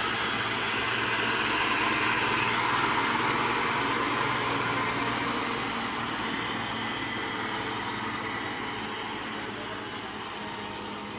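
Heavy-equipment engine running steadily under load, loudest about three seconds in and then gradually easing off.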